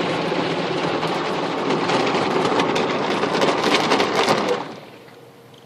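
Automatic car wash spray and equipment pelting the car body, heard from inside the cabin: a dense rush of water with many sharp slaps and ticks, cutting off suddenly near the end.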